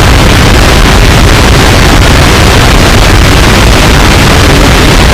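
Harsh noise music: a dense, heavily distorted wall of noise at full volume, heaviest in the bass, with no let-up.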